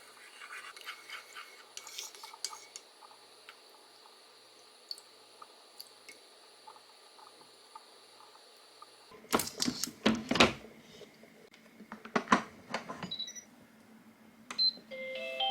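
Kitchenware being handled: light clinks and rustles, then several louder sharp knocks about nine to thirteen seconds in. Near the end come a few short tones stepping up in pitch.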